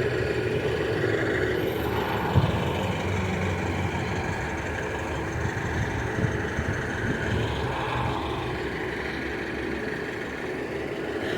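Diesel passenger train running steadily with a low engine rumble and a steady hum.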